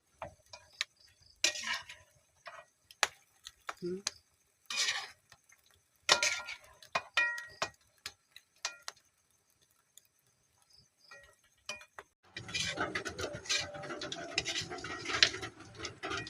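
Scattered clinks and knocks of kitchen utensils and dishes being handled, with a short pause, then a busier stretch of clattering over a steady hiss about twelve seconds in.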